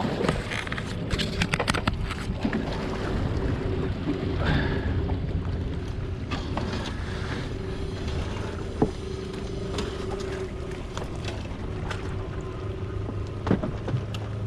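A steady mechanical hum with a low drone under it, broken by scattered knocks and clatter, several in the first two seconds and single sharp knocks near the middle and near the end.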